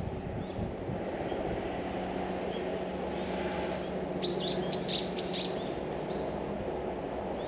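A bird gives three quick, high chirps about four seconds in, with fainter chirps here and there, over a steady low background rumble with a faint hum.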